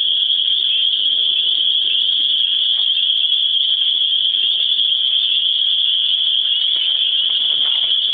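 A loud chorus of cicadas: one continuous, steady high-pitched drone.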